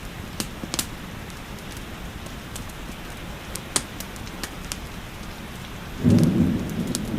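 Steady rain hiss with sharp, scattered crackles of a wood fire. About six seconds in, a low rumble of thunder starts and becomes the loudest sound.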